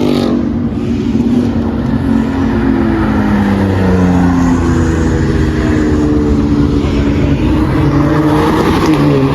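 A performance car's engine held at high revs through a burnout, its pitch sinking slowly and then wavering up and down over the rough hiss of spinning tyres.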